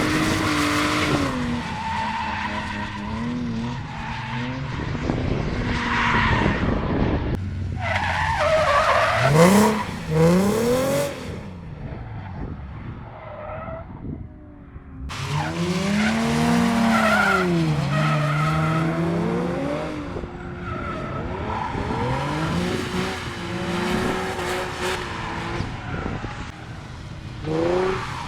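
Drift cars sliding past with their engines revving up and down as the throttle is worked, over the hiss and squeal of spinning tyres. The sound changes abruptly about halfway through, and the revving pattern starts again.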